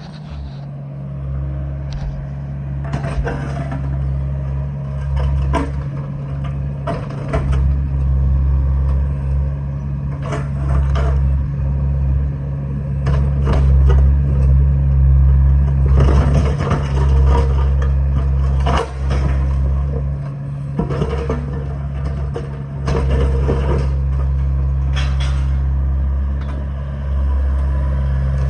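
Engine of a digging machine running under load with a steady low drone, while broken concrete slab cracks, scrapes and knocks as it is torn out and moved, in frequent irregular crunches.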